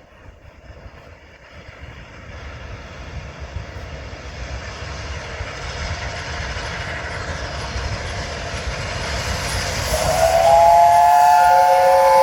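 Peppercorn A1 Pacific steam locomotive No. 60163 Tornado approaching, its running noise growing steadily louder. About ten seconds in it sounds its whistle, a long chord of several notes that bends up slightly as it opens.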